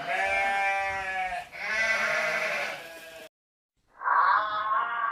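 Two long, drawn-out animal calls, one right after the other. After a brief pause, a different pitched sound starts about four seconds in.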